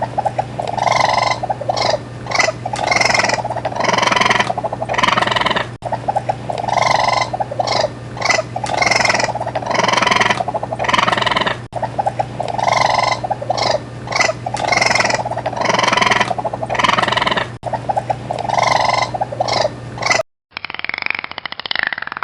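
Repeated animal calls, a recording of about six seconds played over and over, with a steady low hum under it.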